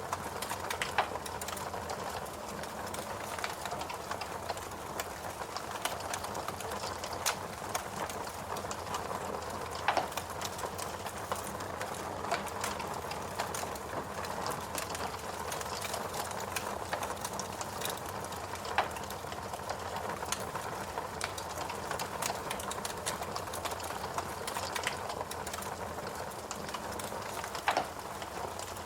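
Fireplace crackling: irregular small snaps and a few sharper pops over a steady background hiss.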